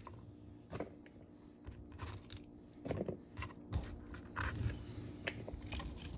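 Knife rough-chopping fresh celery on a cutting board: irregular crunchy cuts and knocks of the blade on the board.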